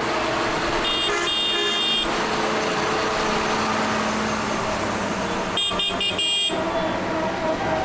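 Tractor engines running steadily while a horn toots in two bursts: a short toot then a longer one about a second in, and a quick run of short toots near six seconds in.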